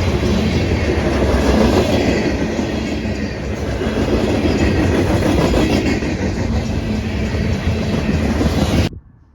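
A train passing close by, its wheels clacking over the rail joints with a heavy rumble. The sound cuts off abruptly near the end.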